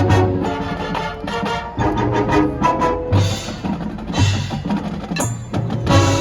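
High school marching band playing its competition show, with percussion to the fore: short struck wood-block and mallet notes over sustained band parts and repeated low drum pulses.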